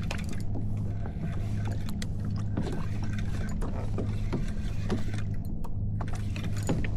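Irregular mechanical clicking and ticking over a steady low hum.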